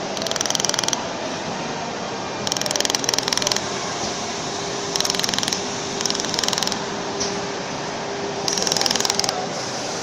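Laser welding machine welding stainless steel in five short bursts of rapid ticking pulses, each under a second, over a steady machine hum.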